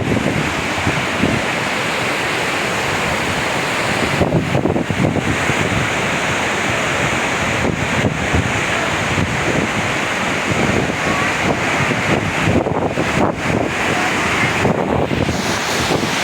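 Steady loud rush of water from a mountain stream (nala).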